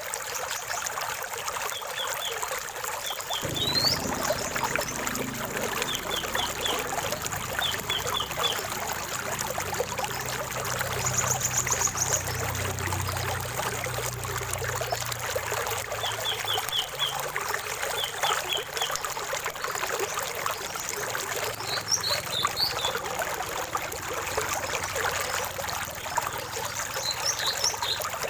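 Water running and trickling steadily in a small stream, with songbirds calling over it: repeated groups of three or four quick chirps, a rising whistle, and a quick high trill. A low rumble comes in suddenly about four seconds in.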